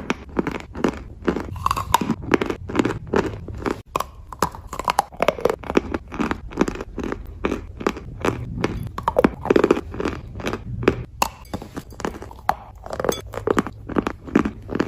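Close-up chewing of chalk: crisp, dry crunches repeating steadily about two to three times a second.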